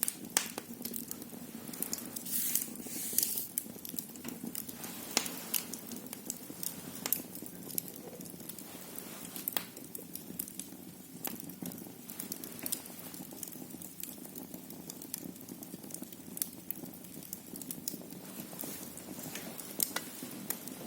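Wood fire crackling in a fireplace: irregular sharp pops and snaps over a low steady rumble of the flames, with a brief hiss about two to three seconds in.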